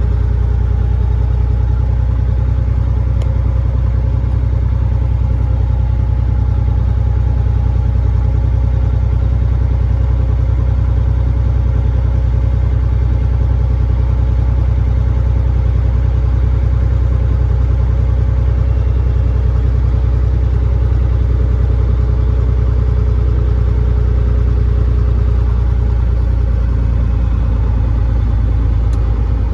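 Cat 3406E inline-six diesel of a Freightliner FLD120 semi running steadily under way, a deep even drone heard inside the truck's cab.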